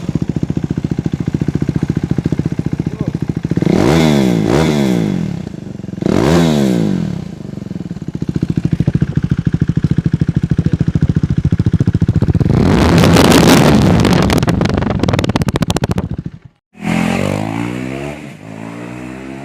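KTM Duke 390's single-cylinder engine running through its silencer with the baffle (dB killer) removed, so the exhaust is open and loud. It idles and is blipped quickly a few times, then revved and held high for a few seconds before falling back toward idle.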